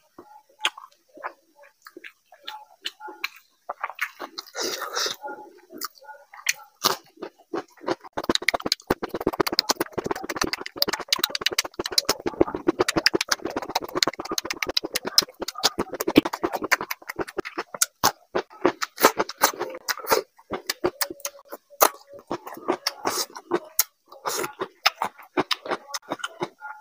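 Close-miked chewing of raw cucumber slices: sparse mouth clicks at first, then from about seven seconds in a dense run of crisp crunches.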